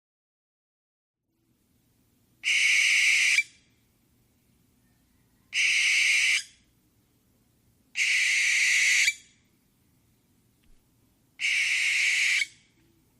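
An animal's harsh screech, four times, each about a second long and starting and stopping abruptly, with gaps of one to two seconds between them.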